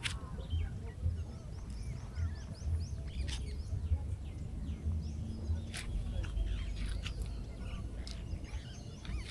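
Small birds chirping and twittering, with a low rumble underneath and a few sharp clicks scattered through.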